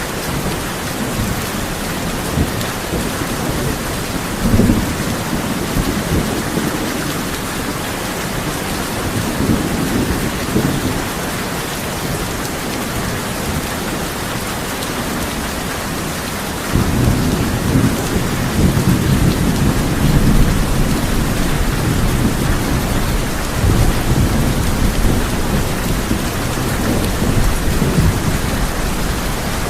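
Heavy rain drumming steadily on a tin roof, with thunder rumbling. A short rumble comes about four seconds in and another about ten seconds in. Just past halfway a long, heavier roll of thunder sets in suddenly and keeps rumbling, swelling and easing, to the end.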